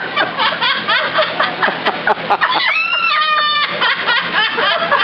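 Parrots cackling in imitation of human laughter, many rapid laugh-like calls overlapping, with one clear whistled call ending in a trill about three seconds in.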